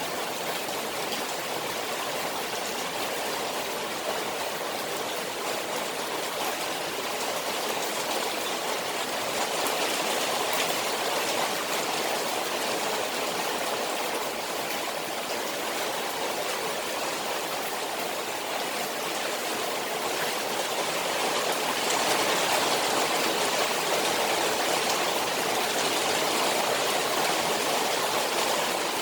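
Steady rain falling on a koi pond, a dense hiss of drops on the water that swells a little about ten seconds in and again a little after twenty seconds.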